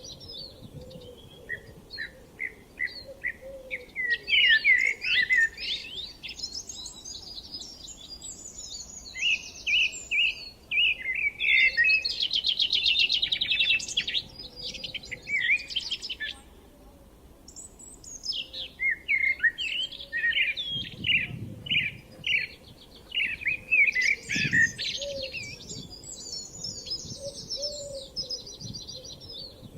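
Several songbirds singing and chirping in a spring countryside chorus, with overlapping quick trills and repeated chirp phrases and a brief lull about halfway through.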